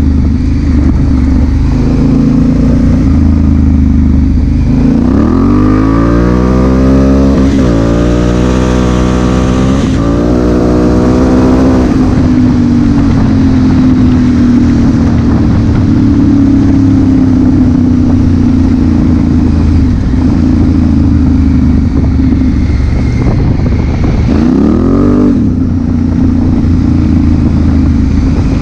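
Honda Africa Twin CRF1000L's parallel-twin engine under way: the revs climb from about five seconds in, drop once at a gear change and climb again until about twelve seconds, then it runs steady. A short rise and fall of revs comes near the end.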